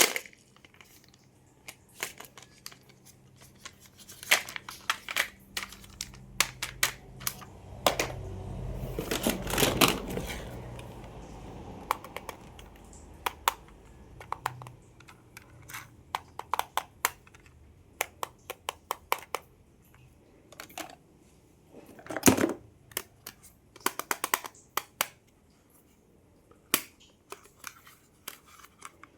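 Close-up handling sounds of plastic toy cars and their packaging: irregular taps and clicks, with a longer scraping, rustling stretch about eight to ten seconds in.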